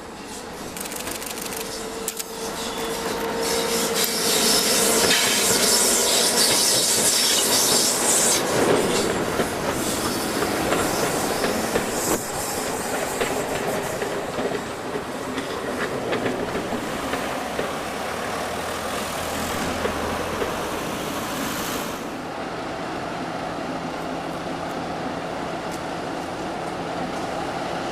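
A train passing on the rails: the wheel and rail noise builds over the first few seconds and is loudest, with a high hiss, about four to eight seconds in. It then runs on more steadily, and the high hiss cuts off about 22 seconds in, leaving a lower rumble.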